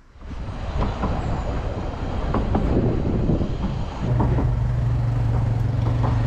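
Narrow gauge steam train running, heard from its open coach: rattling and clanking of the wheels and coach over a rushing noise. About four seconds in, a steady low hum joins.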